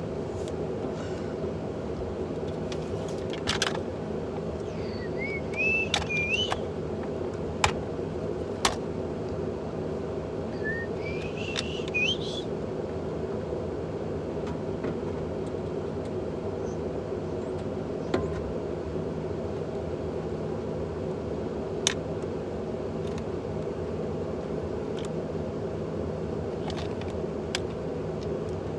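A vehicle engine running steadily, with scattered sharp clicks and a few short squeaks.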